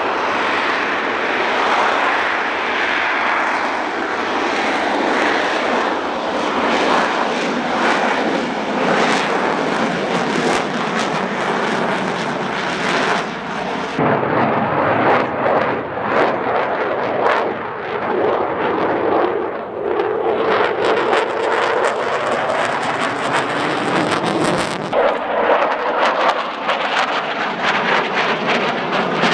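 Aircraft engine noise from a display flight: a loud, steady rushing drone that changes character abruptly twice, about halfway through and near the end.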